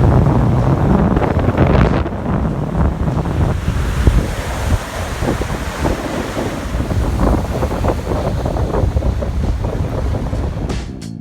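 Storm surf from a hurricane breaking and rushing on a beach, with strong wind buffeting the microphone in a loud, rough low rumble.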